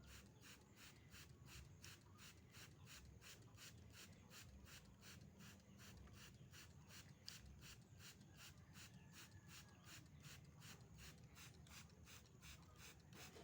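Faint hand trigger spray bottle squeezed over and over, spraying water mist in short hissy squirts at an even pace of about three a second.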